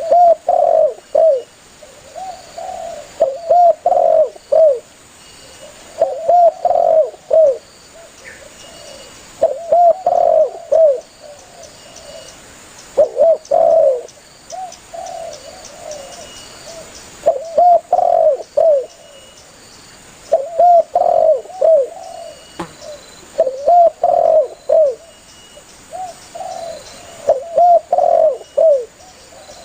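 Spotted dove (tekukur) calling vigorously: phrases of several short cooing notes, repeated about every 3 to 4 seconds.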